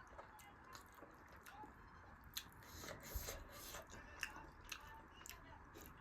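Faint close-up chewing of a large steamed momo dumpling, with scattered soft wet mouth clicks and squishes at irregular moments.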